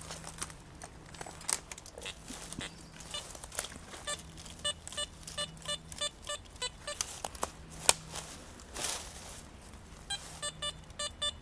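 Metal detecting pinpointer giving short repeated beeps, in clusters from about three seconds in and quickest near the end, signalling metal close to the probe. Crackles and knocks of soil and leaf litter being dug and handled run through it.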